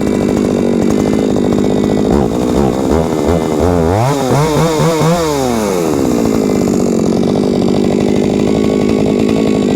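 Two-stroke chainsaw engine running: steady idle, with its pitch rising and falling a few times between about two and six seconds in, then back to a steady idle.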